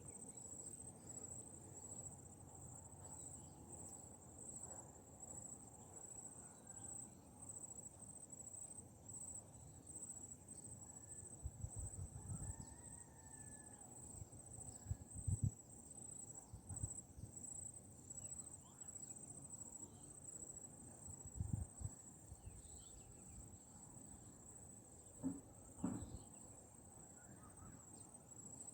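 A steady, high-pitched insect chorus of crickets trilling without a break, faint overall, with a few low thumps at the microphone in the second half.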